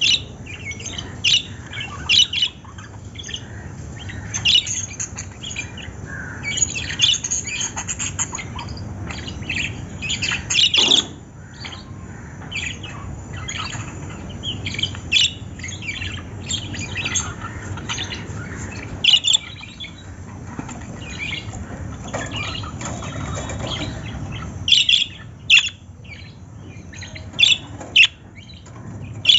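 Lovebirds chirping and squawking: many short, shrill calls, at irregular intervals and sometimes in quick clusters.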